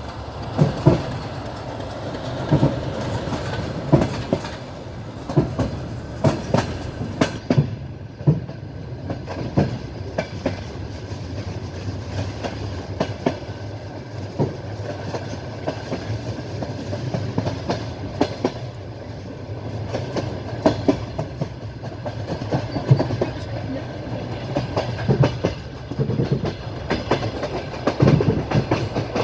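Passenger train running along the line, its wheels clicking over the rail joints in irregular clusters of sharp knocks over a steady low rumble.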